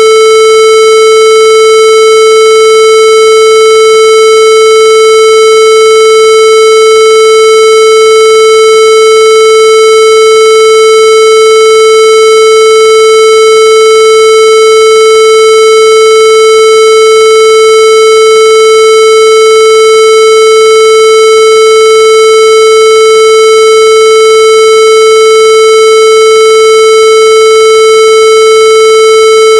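Loud, continuous electronic tone held at one unchanging mid pitch, with strong overtones.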